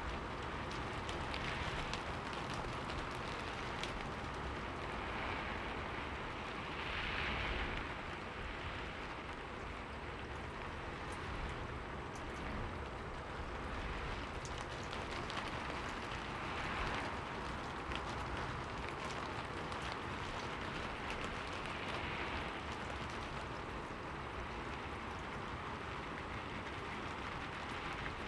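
Steady rain falling on a window pane: an even hiss dotted with the ticks of single drops, over a low rumble. It swells briefly about seven seconds in and again near seventeen.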